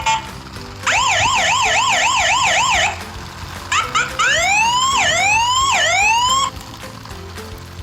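Electronic siren sound. A fast yelping warble runs for about two seconds. After a short pause come a few quick chirps, then a wail that rises, drops sharply and rises again three times, and it cuts off about two-thirds of the way through. Background music plays underneath.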